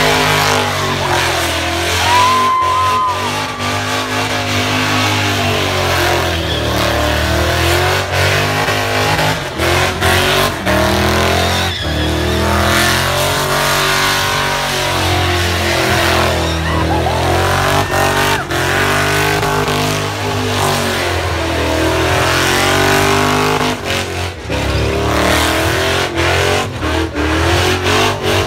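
Car engine revving hard during a burnout, its pitch rising and falling in repeated surges every few seconds, with the spinning rear tyres squealing on the pad.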